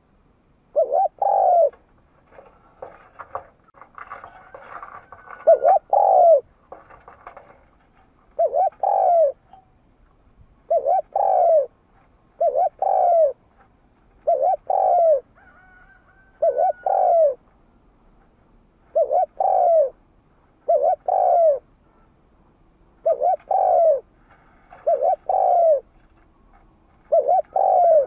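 Spotted dove cooing: short phrases of two or three coo notes, repeated about every two seconds. Fainter higher chirps of other birds come between some phrases.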